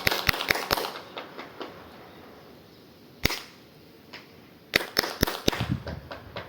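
KTM 690 SMC R single-cylinder exhaust popping and crackling in irregular bursts: a quick run of sharp pops at first, a single crack in the middle and another run near the end, followed by a brief low rumble.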